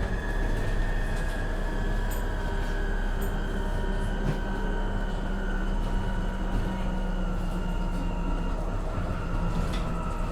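Onboard sound of a MAN Lion's City NL253 Hybrid city bus driving: a steady rumble with a whine from the drivetrain that drifts slightly lower, and a few faint rattling clicks.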